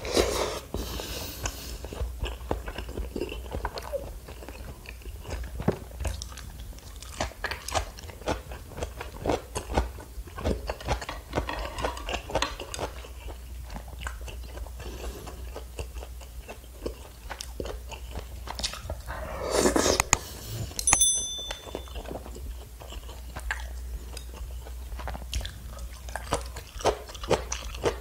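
Close-miked chewing and wet mouth smacks of a person eating tteokbokki, chewy rice cakes and fish cake in spicy sauce, many small smacks in an irregular run. About three-quarters of the way through comes one short ringing clink.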